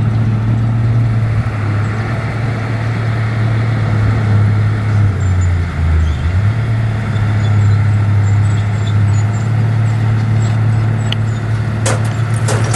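Heavy diesel engine of earthmoving machinery running steadily with a deep hum, its pitch dipping briefly about halfway through. A few sharp clanks come near the end.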